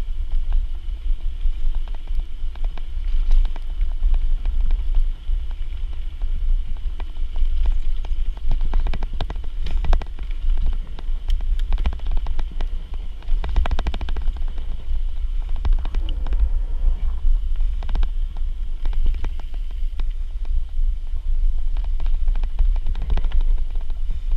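Wind rumbling on the microphone of a moving bicycle, with tyre noise on a dirt trail and scattered small clicks and rattles from the bike.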